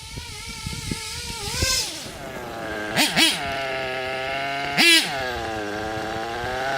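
Nitro RC truggy engine (Kyosho Inferno Neo ST Race Spec) running, its pitch wavering at first. It revs up and drops back twice in quick succession about three seconds in and once more near five seconds, then holds a steady note.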